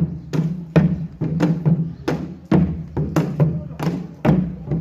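Korean pungmul percussion ensemble playing: sharp drum and gong strokes about two to three a second over a steady low ringing.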